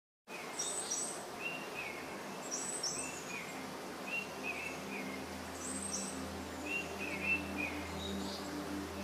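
Several birds calling outdoors: short chirps repeated in quick groups of two or three every second or so, some higher-pitched than others, over a faint steady low hum.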